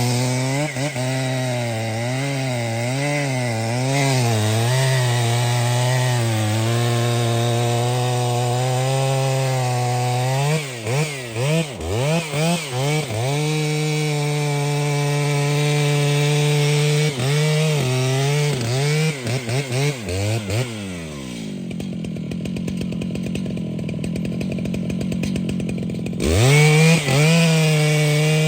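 Large two-stroke chainsaw cutting under load, its engine speed wavering as the chain bites. Several quick blips of the throttle come about ten seconds in and again later; about three-quarters of the way through it drops to idle for a few seconds, then revs straight back up to full throttle.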